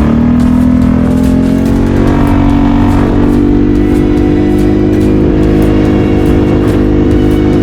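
BRP Outlander 650 ATV's V-twin engine running under way, revving up at the start and then holding a steady speed.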